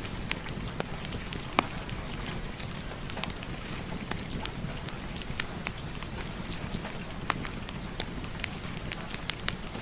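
Steady rain with the irregular snaps and crackles of a wood fire burning in a fireplace, a few sharp pops standing out.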